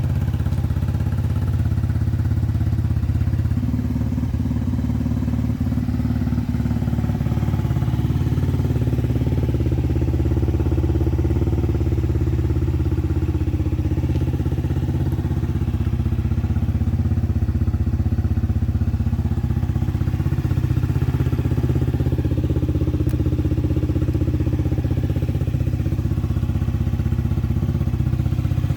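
Honda Zoomer-X scooter's 110 cc single-cylinder four-stroke engine running steadily at idle through an aftermarket Moriwaki muffler.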